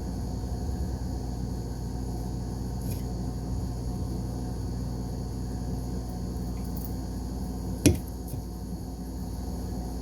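Steady low background hum, with a single sharp click near the end.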